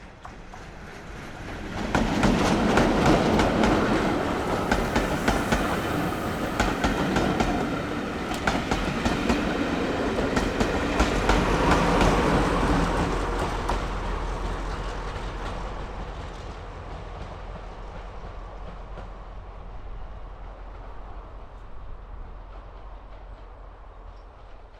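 Train passing on a heritage railway line, its wheels clicking rapidly over rail joints, then fading away as it recedes.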